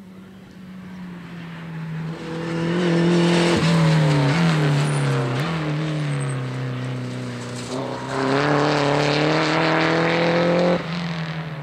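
Rally car engine, loud at full throttle. Its pitch steps down a couple of times, as on braking and downshifting, then climbs steadily as it accelerates away, before the sound drops suddenly near the end.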